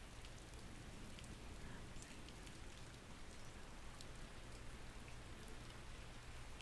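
Steady rain: an even hiss with scattered ticks of individual drops, over a low steady rumble.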